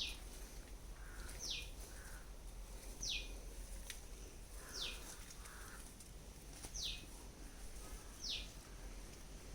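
A bird calling: a short, high note that falls in pitch, repeated six times about every one and a half seconds.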